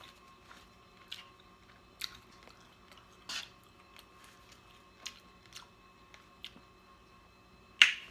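Deliberate lip smacks while eating: sharp, wet mouth clicks, about eight of them at irregular intervals, the loudest near the end.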